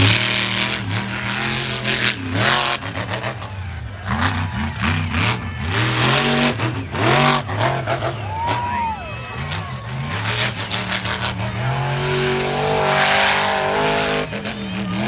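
Monster truck engine revving hard over and over, its pitch climbing and dropping every second or two, with bursts of noise between the revs.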